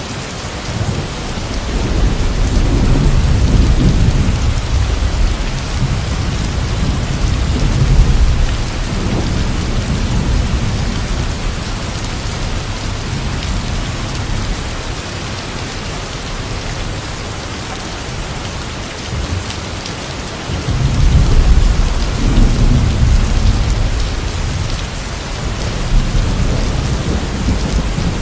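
Steady heavy rain hissing, with two long low rolls of thunder rumbling under it: one in the first third, another starting about three quarters of the way through.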